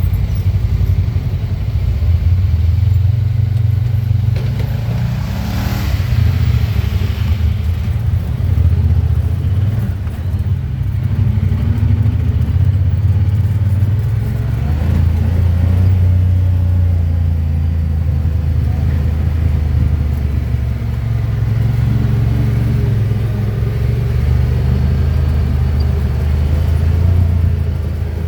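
Honda Pioneer 1000-5 side-by-side's engine running as it drives a trail, a low drone that eases off and picks up again. A brief rush of noise is heard about six seconds in.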